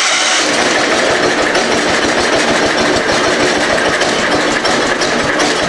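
12 hp Kohler single-cylinder engine of an Allis-Chalmers 912 garden tractor running steadily just after starting, with a little choke on.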